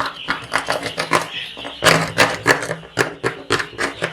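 Young chicks pecking at their feed: rapid, irregular tapping, several sharp taps a second.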